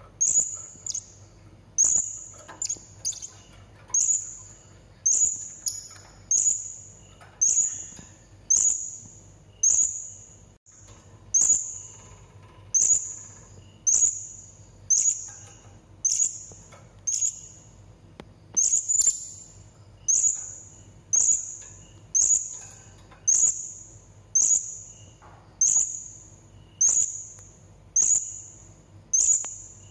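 Serindit (hanging parrot) calling: one sharp, high-pitched call repeated at an even pace, a little more than once a second, each call starting sharply and trailing off.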